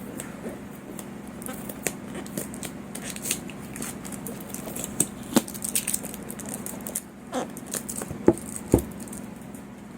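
Hands handling an action camera's cardboard product box while trying to open it: irregular rustling, scraping and sharp taps, the loudest taps about five seconds in and twice near the end.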